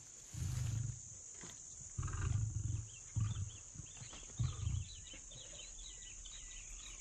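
A lion roaring: four deep calls in the first five seconds, the longest one at the start. Insects chirp and a steady high-pitched buzz runs underneath.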